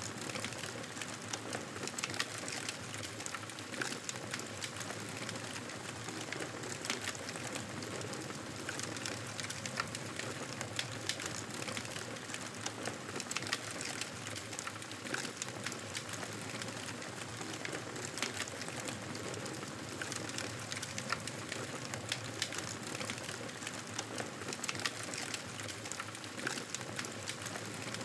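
Campfire burning: a steady rush of flames with frequent, irregular sharp crackles and pops from the burning wood.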